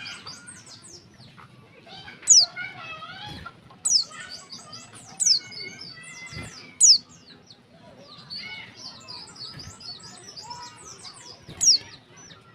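Female white-eye (pleci, Zosterops) calling: quick high twittering chirps, broken five times by a loud, sharp call that sweeps steeply down in pitch. It is the call a female in breeding condition uses to draw males into singing.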